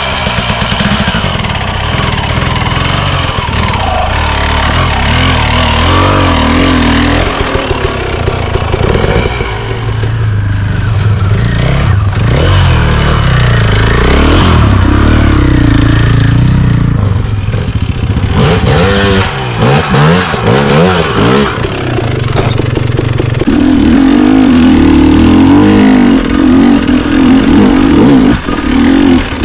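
Dirt bike engine running loud on a trail, revving up and down repeatedly as the rider rolls on and off the throttle, with rapid rising and falling pitch sweeps about two-thirds of the way through.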